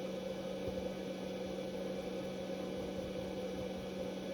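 Steady electrical hum with a constant low tone and hiss, no distinct events.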